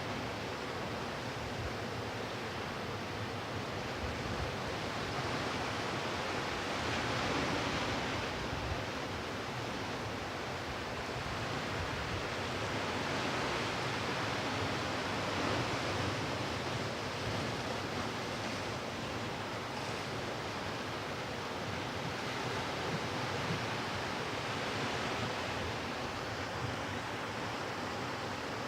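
Sea surf on a beach, a steady wash of waves that swells and eases gently, with some wind on the microphone.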